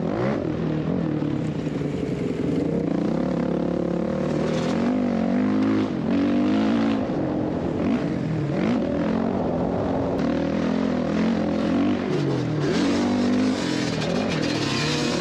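Dirt bike engine running hard on a motocross track, its revs repeatedly dropping off and climbing again as the rider works the throttle and gears, with rushing noise over it that grows near the end.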